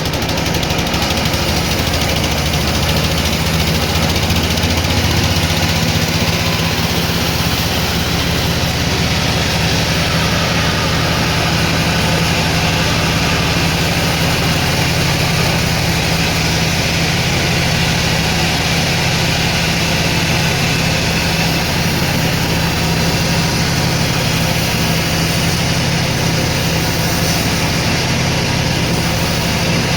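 Sawmill machinery running steadily: a constant low engine hum with an even hiss over it.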